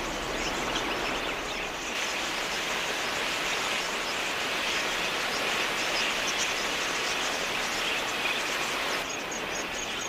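Dense, continuous chatter of a large budgerigar flock, a wash of many high chirps overlapping. About nine seconds in, a regular high ticking, about four a second, comes in.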